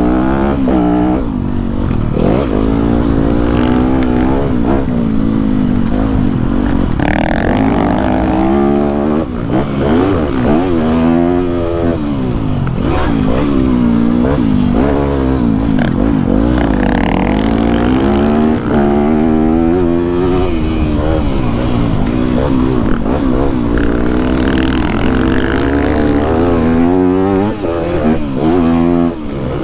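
Yamaha YZ250F dirt bike's single-cylinder four-stroke engine being ridden around a motocross track, its pitch rising and dropping again and again as the throttle is opened and closed through the gears.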